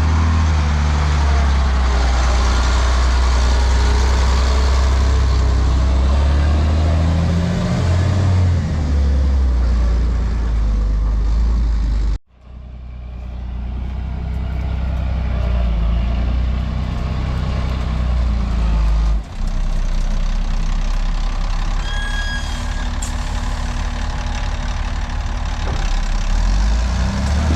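Off-road haul truck's diesel engine running under load, a deep steady drone. The sound cuts out abruptly about twelve seconds in and comes back. A brief high beeping sounds about two-thirds of the way through.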